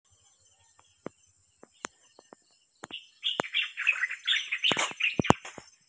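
Small birds chirping busily from about three seconds in, with scattered sharp clicks before and among the calls.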